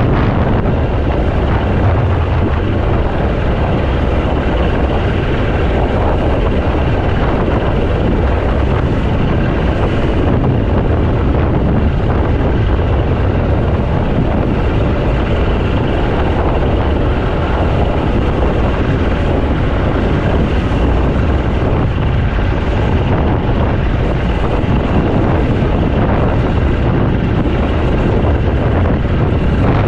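A motor running steadily, with strong wind buffeting the microphone.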